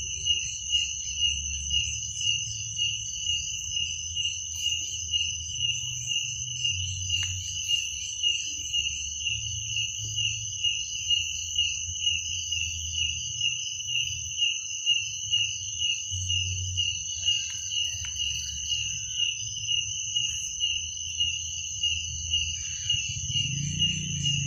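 Crickets chirping: a steady, rapid pulsing trill with a second, higher insect drone above it. The chorus swells about twice a second over a low hum.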